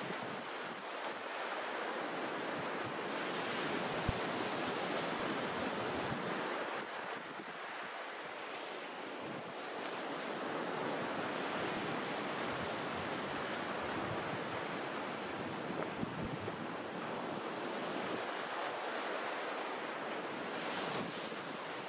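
Mediterranean waves washing onto the shore, a steady surf noise that swells and eases, with some wind on the microphone. Two faint knocks, about four seconds in and about sixteen seconds in.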